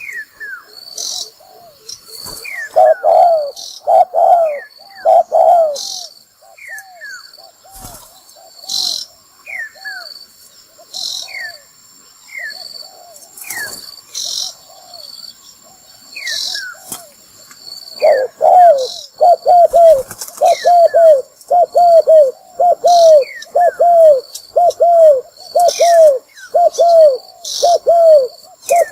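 Spotted dove decoy bird cooing in runs of short, evenly spaced coos, about one a second, softer through the middle and loud and regular from about two-thirds of the way in: the provoking challenge call that trappers use to draw wild males in. Thin high chirps sound between the coos.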